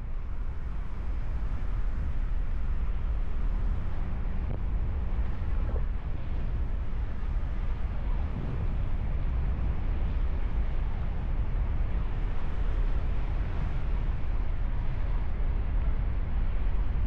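Steady rush of wind over the microphone during a paraglider flight, mostly low-pitched.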